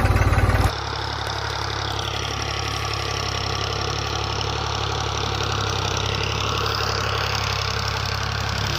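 Tractor-style diesel engine idling with a steady low chugging beat. The sound changes abruptly and drops in level less than a second in, then runs on evenly.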